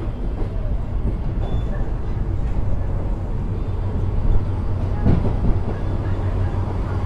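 Diesel passenger train running: a steady low rumble with a couple of knocks about five seconds in.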